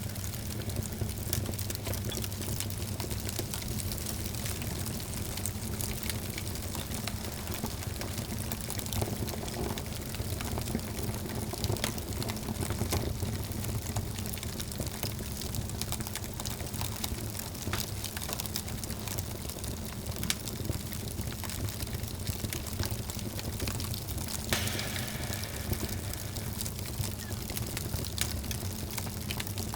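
Wood fire burning in a fireplace: a steady low rumble with frequent sharp crackles and pops, and a brief brighter hiss about 25 seconds in.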